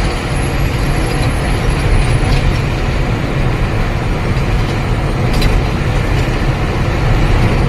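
Steady drone of a truck's engine and road noise heard inside the cab of a moving truck, with a constant low rumble.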